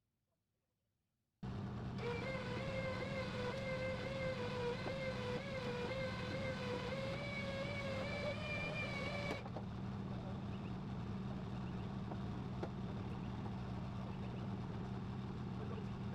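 A vehicle engine running steadily, starting abruptly after a second and a half of silence. For about eight seconds a wavering whine sits over it, then stops suddenly while the engine carries on.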